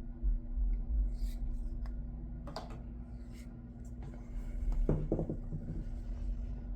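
A knife edge being stropped in quick passes on a strop charged with 2-micron diamond, a few soft scraping strokes over a steady low hum. The stropping deburs the edge and polishes off its micro-serrations.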